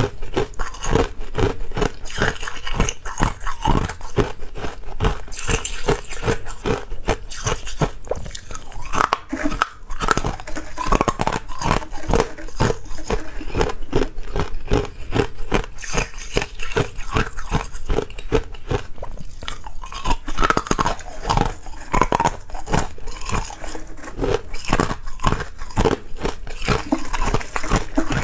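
Ice being bitten and chewed close to the microphone: rapid, continuous crunching.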